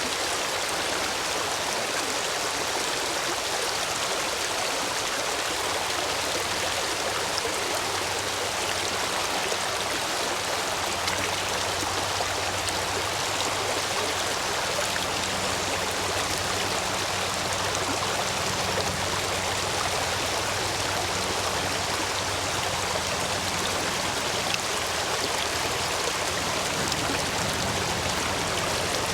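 Urban stream running high after heavy rain, rushing and splashing steadily over and between stepping stones.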